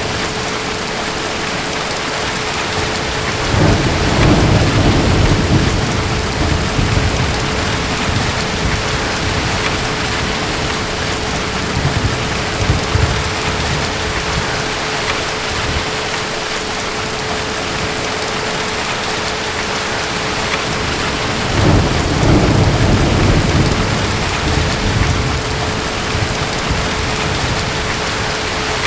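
Steady rain with two rolls of distant thunder. The low rumbles build about four seconds in and again about twenty-two seconds in, each lasting several seconds.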